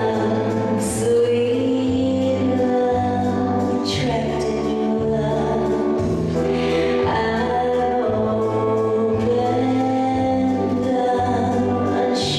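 Music with choral singing: voices hold long sustained notes over a bass line that changes every second or so.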